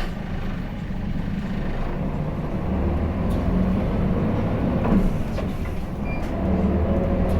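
Hino Blue Ribbon City city bus (KL-HU2PMEA), heard from inside the cabin, pulling away from a stop. Its diesel engine hum grows stronger as it accelerates, once about two and a half seconds in and again near the end.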